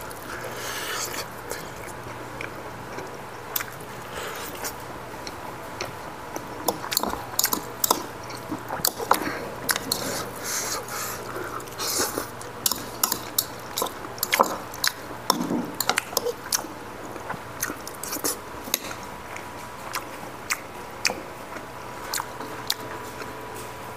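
Close eating sounds: chewing and lip smacking, with a spoon clinking and scraping against a ceramic bowl, heard as many short, sharp clicks scattered irregularly over a faint steady hum.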